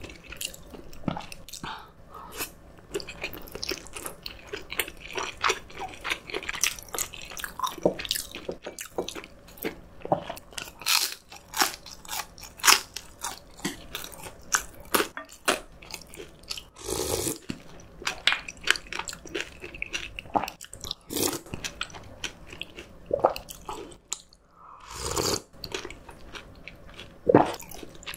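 Close-miked eating sounds: a person chewing and biting, with crunchy bites and many short sharp mouth clicks, and two longer sounds, one a little past halfway and one near the end.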